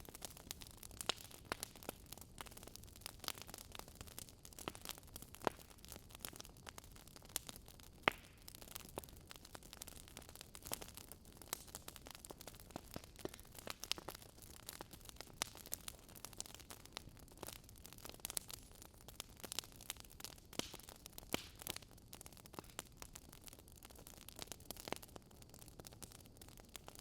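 Wood fire crackling: burning logs giving off irregular sharp pops and snaps over a faint steady hiss, with one louder snap about eight seconds in.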